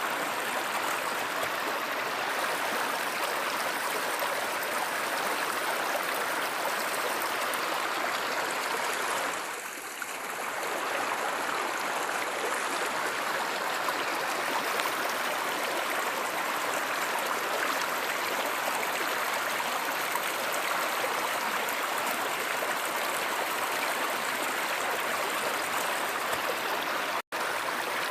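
Running water of a stream or river, a steady rush that dips briefly about ten seconds in and cuts out for an instant near the end.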